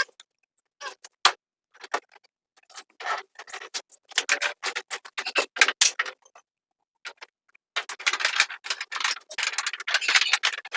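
Irregular clicking and tapping, scattered at first and then in dense rapid runs about four seconds in and again over the last three seconds.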